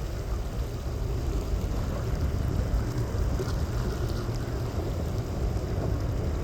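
Motorboat engines running with a steady low rumble as boats pass through the inlet.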